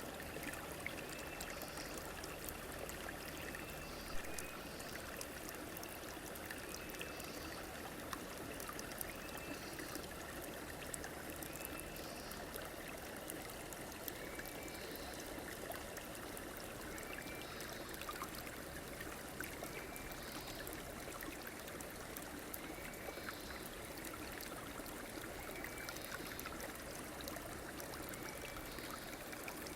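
A stream running steadily over its bed, with short high calls repeating every couple of seconds.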